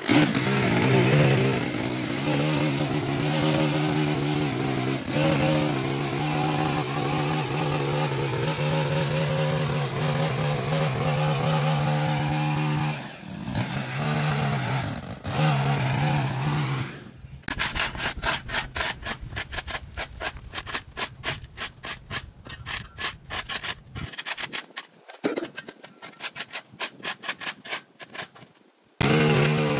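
A small petrol engine on lawn equipment runs steadily for about seventeen seconds, then after an abrupt cut a rake scrapes over the ground in quick repeated strokes until another cut near the end.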